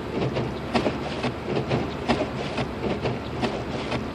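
Cabin noise of a Lexus IS250 AWD driving on a snow-covered road: a steady rumble of tyres and engine with frequent sharp ticks and knocks, a few a second, at uneven spacing.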